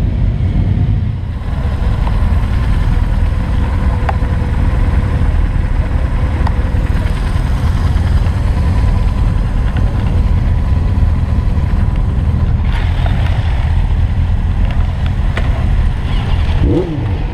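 Motorcycle engines running at low speed, heard as a steady low rumble.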